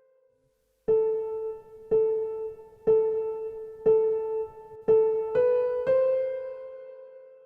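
Sparse piano music: a single note struck about once a second, stepping up to higher notes near the end and then fading out.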